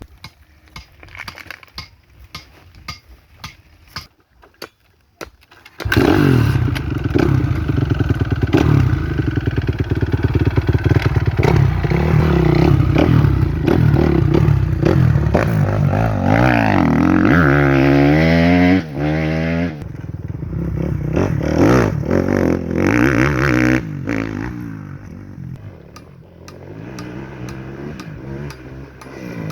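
Motocross bike engine running close by, cutting in suddenly about six seconds in after a run of sharp clicks, then revving up and down with rising and falling pitch. It eases off for a few seconds near the end and rises again.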